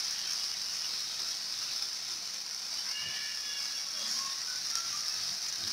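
Strips of zucchini, red pepper, carrot and onion sizzling steadily in a hot frying pan as they are stirred with a spatula.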